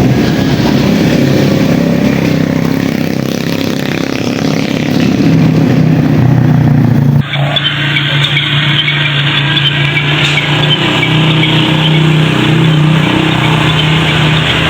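Motors of radio-controlled construction models running with a steady hum. The sound changes abruptly about halfway through, with the hum carrying on under a brighter, hissier layer.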